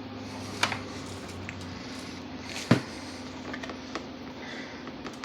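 Light kitchen handling as a chicken breast is turned in grated Parmesan-Romano cheese: a few soft clicks and taps, and one sharper knock about two and a half seconds in, over a steady low hum.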